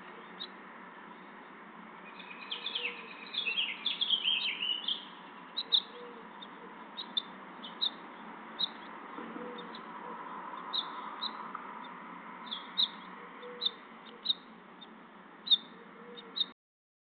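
Small birds chirping: short high chirps come about once a second, with a quick twittering run a couple of seconds in. The audio cuts off suddenly near the end.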